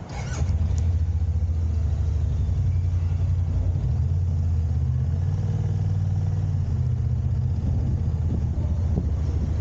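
A vehicle engine's low, steady rumble that comes in suddenly about half a second in, with a click as it starts, and then runs evenly.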